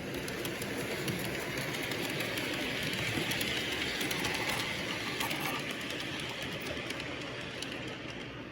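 Toy train running along its track: a steady whirring rattle with many small clicks. It grows louder toward the middle and fades near the end.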